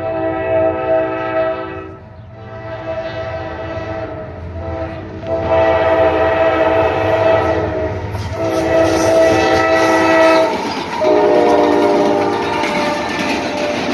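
Diesel locomotive's multi-chime air horn sounding a string of long blasts, each about two to three seconds, with short breaks between them. The last blast comes out lower in pitch as the locomotive passes. The train's wheels are heard rolling on the rails near the end.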